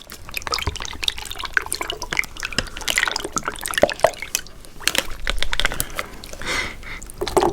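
Thick, sticky liquid dripping and sloshing close to the microphone, with a dense run of small wet clicks.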